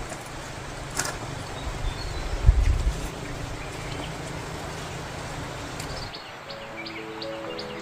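Outdoor noise with low rumbling thumps and a click for about six seconds. Then the sound cuts, and a soft melody with short high chirps begins.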